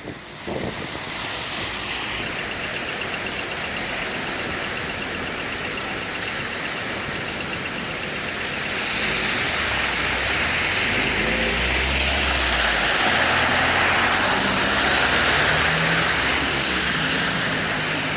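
Street traffic on a flooded road: a steady wash of tyre and water noise from passing cars. A vehicle engine rumbles louder about halfway through, then eases near the end.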